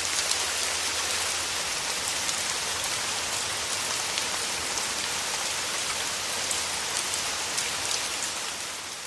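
Wood fire burning in a fireplace: a steady hiss with many small, scattered crackles and pops, fading out near the end.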